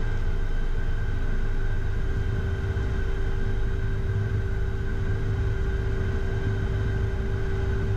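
Cockpit noise of a Beechcraft Premier I taxiing on idle thrust from its twin turbofans: a steady low rumble with constant whine tones above it.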